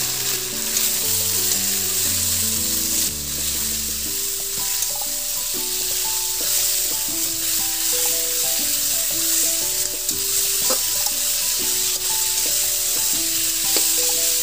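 Marinated mutton pieces sizzling in hot oil in a kadai, stirred with a spatula: a steady dense sizzle with a few scraping clicks.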